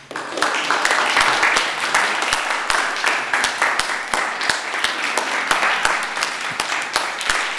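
Congregation applauding: dense clapping from many hands that starts abruptly and goes on steadily.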